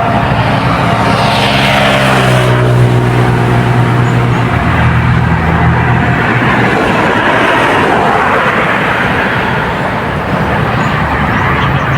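A motor engine passing close by: its pitch drops over the first few seconds as it goes past, then holds at a steady hum, over a loud steady hiss.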